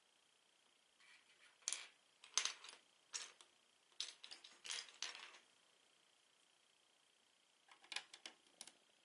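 Plastic Lego bricks clattering and clicking as they are handled: clusters of small sharp clicks over the first half, then a short burst again near the end.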